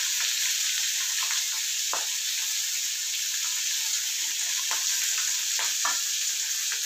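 Hot coconut oil sizzling steadily in an iron pan as crushed garlic, shallots, green chilli and ginger are pushed in, with a few faint taps.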